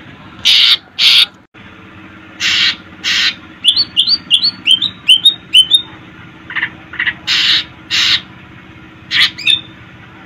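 Green leafbird (cucak ijo) calling. Harsh rasping notes come in pairs, and a quick run of rising chirps falls in the middle. A faint steady hum lies underneath.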